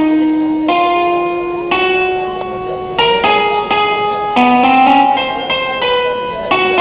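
Electronic keyboard playing a slow melody over held chords, with the notes changing about once a second.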